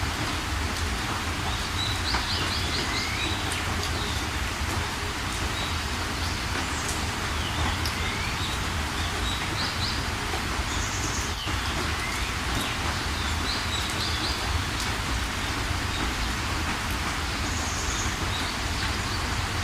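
Steady rain with small birds chirping over it: a short run of quick high notes, sometimes followed by a falling note, comes back about every three to four seconds.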